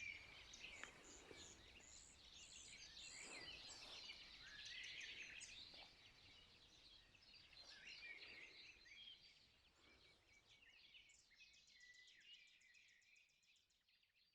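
Dawn chorus: many small songbirds chirping and singing at once, faint, with a rapid trill of repeated notes about two-thirds through. The chorus thins out and fades over the last few seconds.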